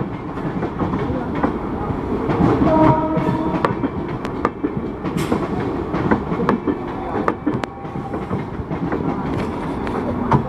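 A passenger train running on the track, its wheels clicking sharply and often over the rail joints under a steady rumble. About two and a half seconds in, a few steady tones sound briefly over the noise.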